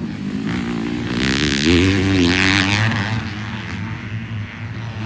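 Motocross bike engines racing on the track; one bike comes close and is loudest between about one and a half and three seconds in, its engine pitch rising and falling with the throttle, before the sound settles back to a steadier drone of engines.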